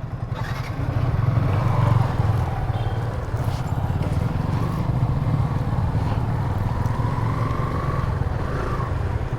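Motorcycle engine running steadily, growing a little louder over the first second or two.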